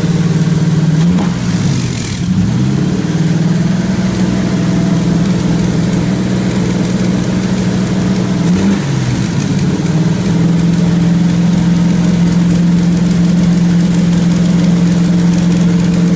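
Chevy engine with a freshly replaced camshaft running at a fast, steady speed on an engine test stand during its cam break-in run. Twice, about a second in and again near nine seconds, its speed sags and then climbs back.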